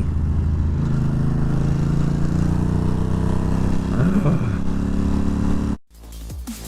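Ducati Monster 620's air-cooled L-twin engine running under way, its pitch rising slowly as the bike accelerates. The engine sound cuts off suddenly near the end, and electronic music with a beat comes in.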